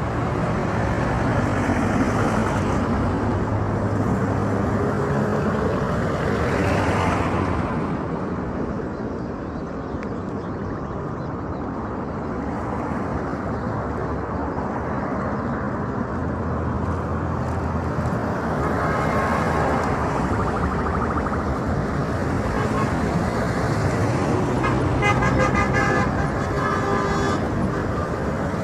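Road traffic: vehicle engines running and passing, with horns tooting.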